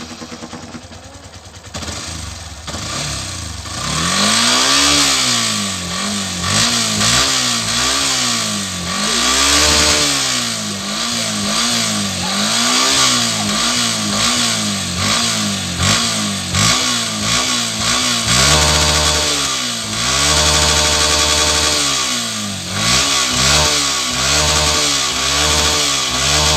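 Motorcycle engine revved over and over, its pitch climbing and dropping about once a second, then settling to a steady idle, blipped a few more times and idling again near the end.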